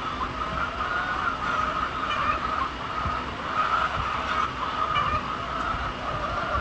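A large flock of poultry calling all together, a dense steady chatter of many overlapping calls.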